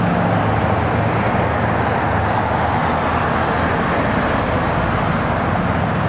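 Steady road-vehicle noise with a low hum.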